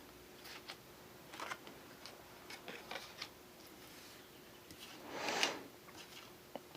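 Faint scattered light clicks and taps, with one brief soft swish about five seconds in, from tarot cards being handled on a table.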